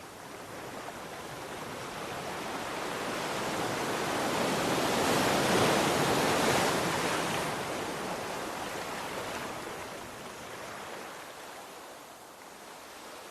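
Sea waves: a single slow swell of surf that builds to a crash about five to six seconds in, then washes back and fades.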